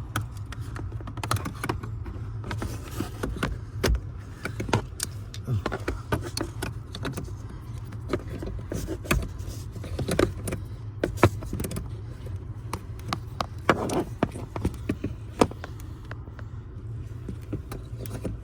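Irregular clicks, taps and knocks of hands handling keys and equipment in a car, over a steady low hum.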